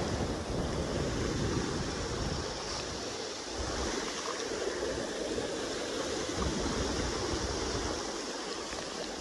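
Steady rush of a fast-flowing river, with wind gusting unevenly on the microphone as a low rumble.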